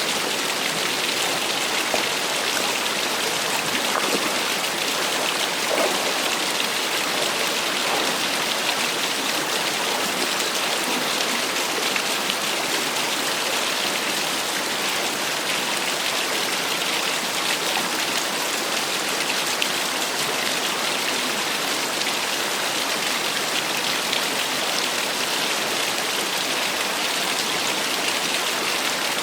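Small waterfall splashing steadily, an even rush of falling water with occasional brighter splashes.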